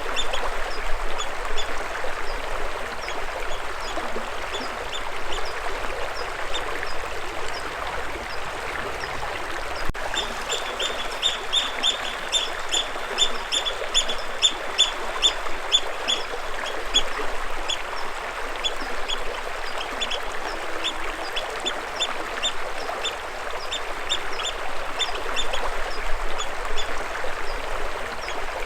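Water flowing steadily, with a bird giving long runs of short, high chirps, several a second, over it.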